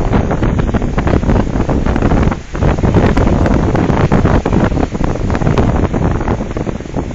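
Loud, gusty wind buffeting the microphone, with a brief lull about two and a half seconds in.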